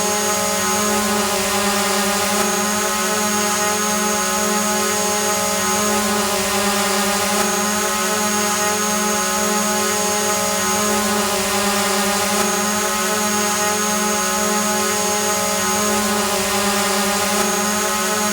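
Drone hovering: a steady buzzing whine from its motors and propellers, with a thin high tone that drops out and returns every few seconds.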